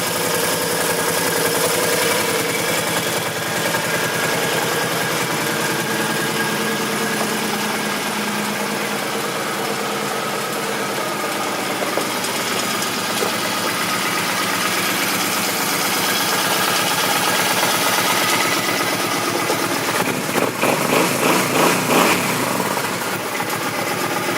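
Suzuki M50 Boulevard's V-twin engine idling steadily; near the end the level rises and falls a few times.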